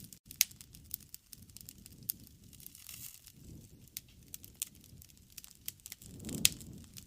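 Wood fire burning and crackling, with irregular sharp pops and snaps over a soft low rush of the flames that swells now and then.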